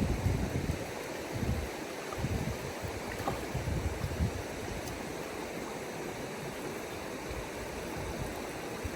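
River water flowing steadily, with gusts of wind buffeting the microphone in the first half.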